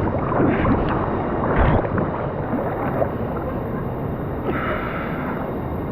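Rushing stream water churning and splashing around a person floating down a canyon stream, with louder splashes in the first two seconds.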